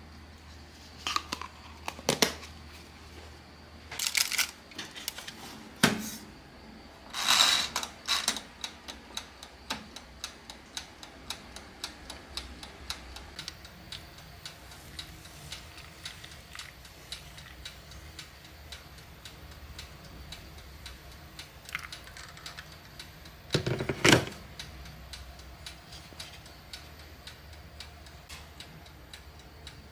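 Steady fast ticking in a quiet room, broken by a few sharp clatters and knocks of household things being handled, the loudest about two thirds of the way through.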